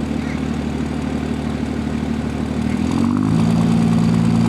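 Dodge pulling truck's diesel engine running steadily, then revving up about three seconds in and holding at higher revs as it spools the turbo and builds boost before the pull.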